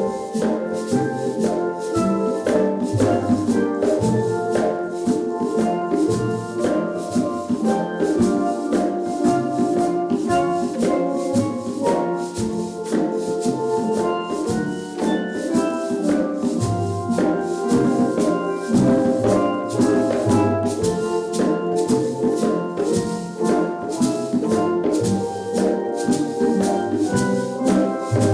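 Steel drum band playing a lively tune, melody notes ringing over drums, with a shaker keeping a fast, steady beat.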